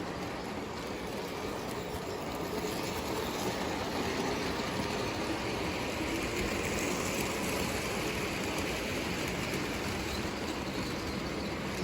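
Lionel O gauge toy train running on the layout track: a steady motor hum and wheel rumble that grows a little louder about two and a half seconds in.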